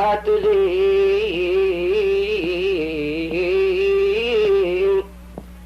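A man's solo voice chanting a line of an Arabic qasida, holding and ornamenting the final word in a long, wavering melisma, then breaking off about five seconds in.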